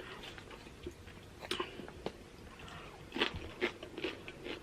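A person chewing a mouthful of loaded nachos with tortilla chips close to the microphone: scattered short, crisp crunches and mouth clicks, a little louder about a second and a half in and again past three seconds.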